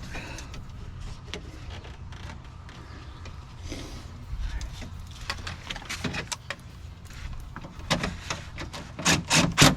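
Window glass and door hardware being worked back into the guide channel inside a pickup truck door: scattered clicks, knocks and scrapes over a steady low hum, with a cluster of loud, sharp scrapes near the end.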